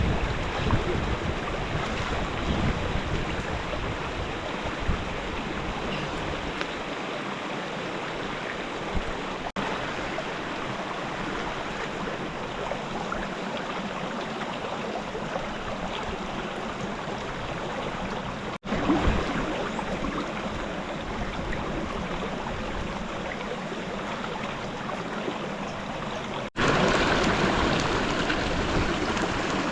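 Steady rushing water, with no distinct events in it. It cuts out for an instant three times, about a third, two thirds and nine tenths of the way through, and is louder after the last break.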